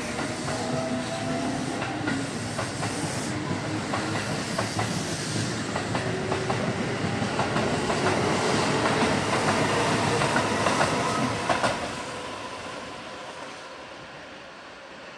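Keihan 8000 series electric train running along the platform, wheels clicking over rail joints amid steady running noise. The sound peaks and then fades away over the last few seconds.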